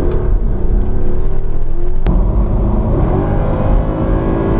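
Mercedes C63 AMG estate's V8 engine accelerating, its note rising in pitch, with a sharp click about two seconds in and then a second climb in pitch.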